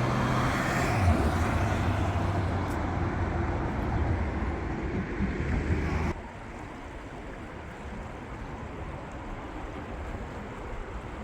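A motor vehicle running close by with a steady low engine hum over road noise, cut off abruptly about six seconds in, leaving a quieter steady rushing noise.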